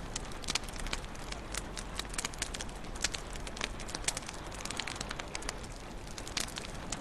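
Wood fire crackling in a fireplace: irregular sharp snaps and pops, several a second, over a steady low hiss and rumble.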